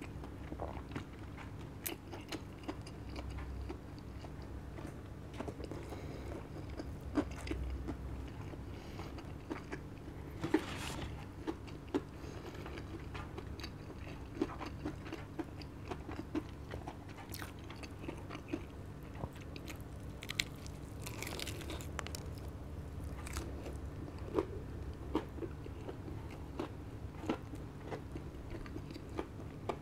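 Close-up chewing and biting into a crispy fried chicken fillet sandwich (KFC Double Down), with many small crunches and mouth clicks and a few louder crisp bites. A faint steady low hum lies underneath.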